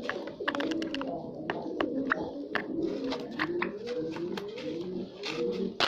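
Several doves cooing at once in overlapping low, wavering calls, with many sharp clicks mixed in.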